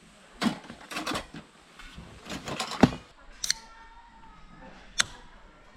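Scattered clicks and knocks of utensils and dishes at a meal table, with a cluster of taps about two and a half seconds in and one tap about three and a half seconds in that rings briefly.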